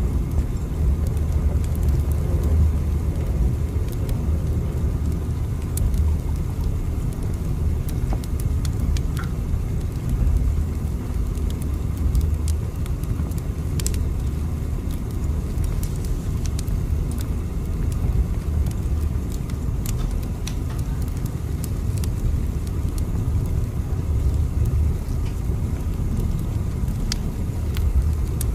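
Steady low rumble of a train running, with faint, scattered clicks over it.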